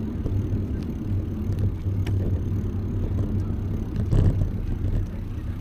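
Steady low rumble of riding a bicycle outdoors: road and tyre noise mixed with wind on the microphone, with a few faint clicks.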